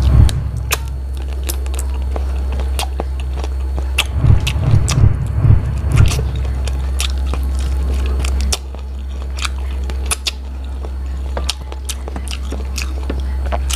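Close-miked biting and chewing of braised chicken feet (chicken feet adobo): many sharp wet mouth clicks and smacks, with a few heavier low thumps about four to six seconds in. A steady low hum runs underneath.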